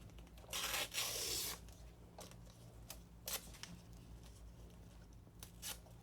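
Hands working on the inside of an opened PS5 console: a tearing, rustling scrape lasting about a second near the start, then a few light clicks as parts are set in place.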